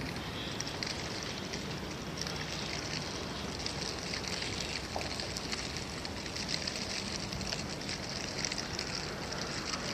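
Steady crackling rustle of walking along an outdoor path, with no distinct single event standing out.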